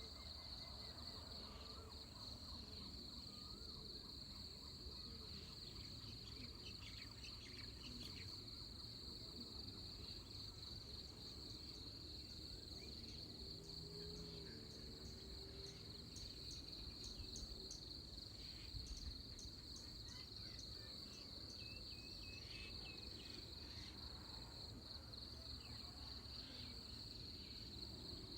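Insects trilling in one steady, high, faintly pulsing band, with a few scattered faint bird chirps over it.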